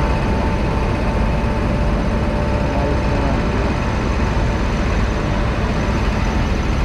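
Standing train's machinery running, a steady heavy rumble with a constant high whine over it.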